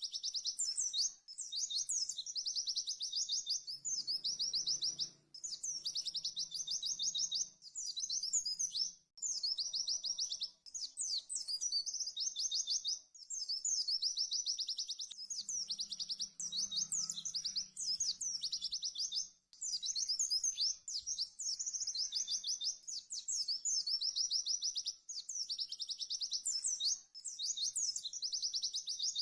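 White-eye (pleci) song: long, very fast, high chattering trills in phrases of several seconds each, broken by short pauses. This is the rapid 'tembakan' style of pleci song.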